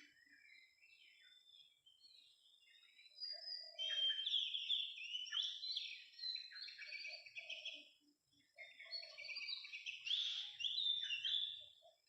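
Oriental magpie-robin song: varied whistled and chattering phrases in several bursts, loudest from about a third of the way in and again near the end, with short low notes between the phrases.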